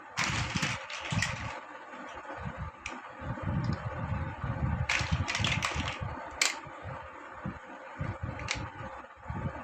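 Plastic building blocks clicking and clattering as they are handled and pressed together, in irregular taps with dull thumps between them, over a faint steady hum.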